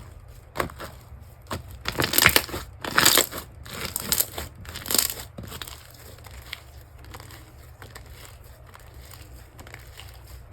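Slime being squeezed and pressed by hand, giving crackling, crunchy sounds: a run of loud bursts in the first half, then softer, finer crackles.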